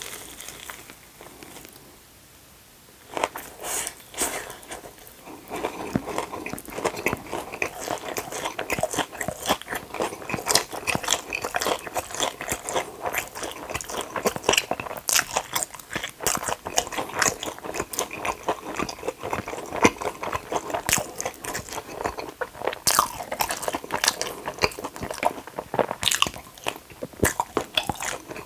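A person biting and chewing crunchy fried hot dog batter up close to the microphone, in dense, irregular crunches. There is a brief quieter pause about two seconds in, and then steady chewing and crunching.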